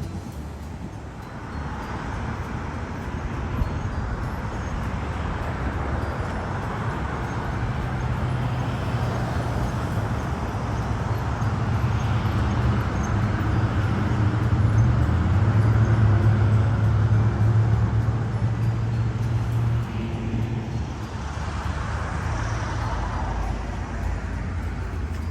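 Street traffic with a car engine running close by, its low hum building to its loudest about two-thirds of the way through and then easing off.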